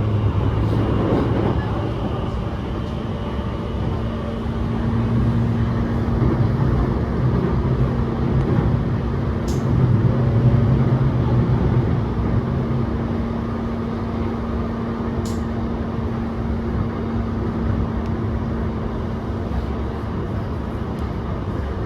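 Electric commuter train running, heard from inside the passenger car: a steady rumble of wheels on rail with a constant low hum. Two sharp clicks come partway through.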